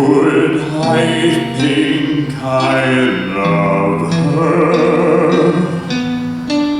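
A solo voice singing long, wavering held notes of a slow song, accompanied by acoustic guitar.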